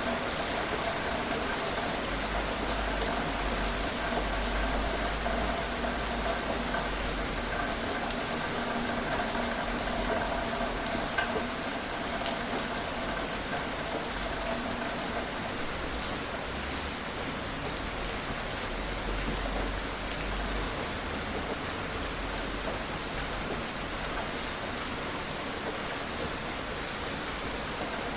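Steady gentle rain falling on a surface, with scattered individual drop ticks. A faint steady hum sits under it and fades out about halfway through.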